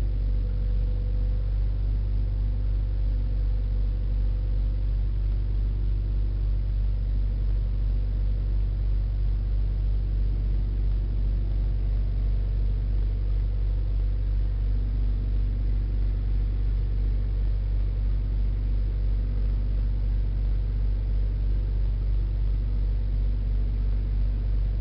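Big-rig diesel engine running steadily at a constant low hum, with an even pulse and no change in speed.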